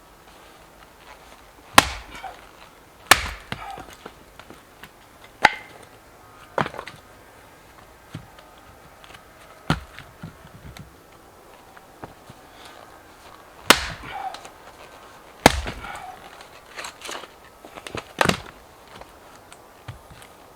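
Dead firewood being chopped: about eight sharp, irregularly spaced strikes a few seconds apart, some followed by smaller knocks.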